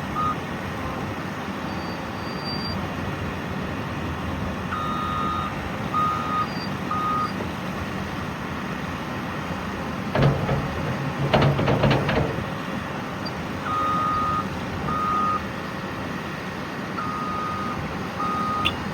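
Caterpillar 963 track loader's diesel engine running steadily, its backup alarm beeping in short spells as it reverses. About ten seconds in, a run of loud clanks and knocks rises over the engine for a couple of seconds.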